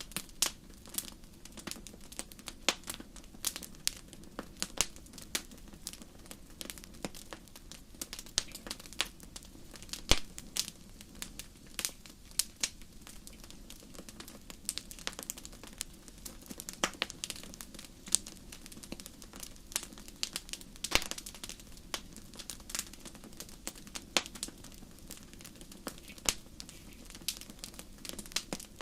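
Fireplace fire crackling: irregular sharp pops and snaps over a low steady hiss, with one louder pop about ten seconds in.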